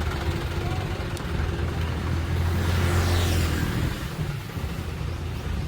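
Motor vehicle running with a low rumble that swells for a second or two in the middle, then eases off.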